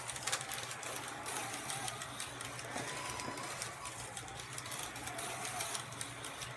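Carrera Digital 132 slot cars lapping the track: their small electric motors whirr steadily, with occasional clicks from the cars running over the plastic track sections.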